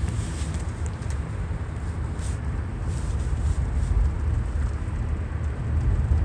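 Car driving along a road, a steady low rumble of engine and tyre noise heard from inside the cabin.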